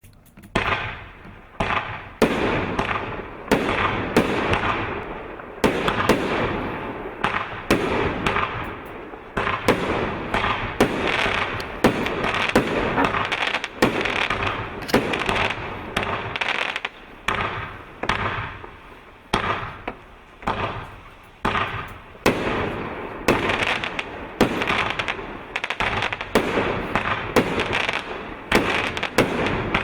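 Emperor Electro Surge 36-shot 1.3G firework barrage cake firing shot after shot. Sharp reports come about one a second, with a dense crackling hiss between them.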